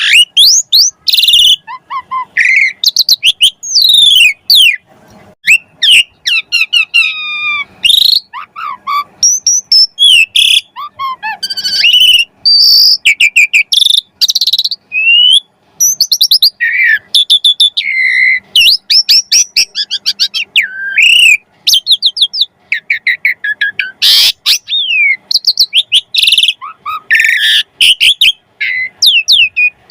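Pied starling (jalak suren) singing without pause: a rapid, varied string of loud whistles, rising and falling slurred notes and quick chattering phrases.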